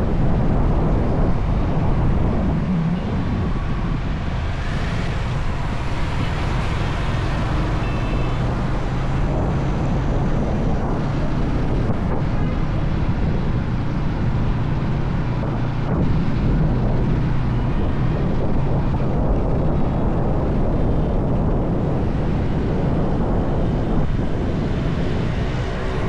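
Steady road noise from riding a motorbike: wind rushing over the microphone, with engine and traffic rumble underneath.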